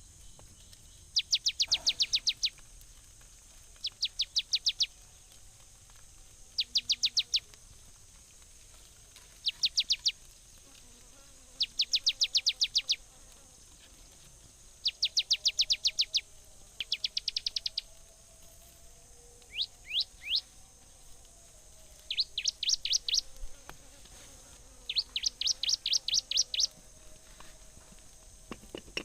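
A bird calling over and over in bursts of rapid, high chirps, each burst about a second long and coming every two to three seconds. A steady high insect hiss runs underneath.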